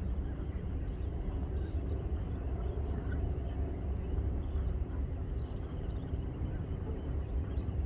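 Steady low outdoor rumble, with a faint high call about five and a half seconds in.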